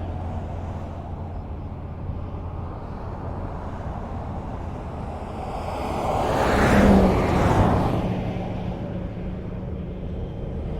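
Highway traffic: a steady low rumble of tyres and engines, with one vehicle passing close about two-thirds of the way through, its sound rising and then fading away.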